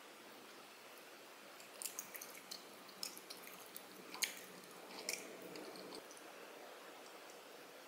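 Faint close-up chewing of soft, chewy tteokbokki rice cakes, with scattered wet mouth clicks and a sharp click about four seconds in.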